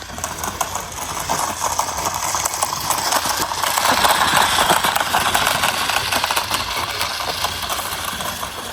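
Continuous rattling and clicking of plastic toys, growing louder toward the middle.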